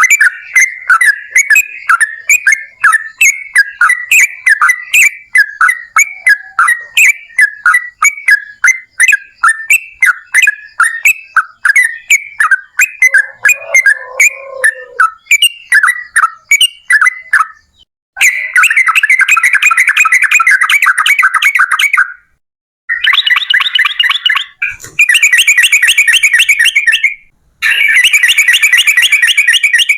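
Yellow-vented bulbul (trucukan) singing loudly: first a long string of short chattering notes, several a second, then from about eighteen seconds in, long, very fast trills in bursts of two to four seconds separated by brief breaks.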